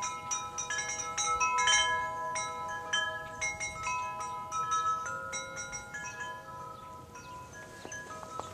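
Wind chimes ringing, struck at irregular moments, with several clear tones overlapping and slowly dying away.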